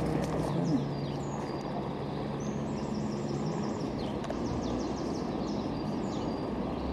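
Small birds chirping and singing in short repeated phrases over a steady outdoor background of traffic hum and wind, with a low steady hum fading out in the first second.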